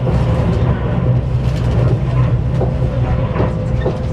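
Interior noise of a CRH1A high-speed electric multiple unit running on the line: a steady low rumble with a faint steady whine above it and light scattered ticks.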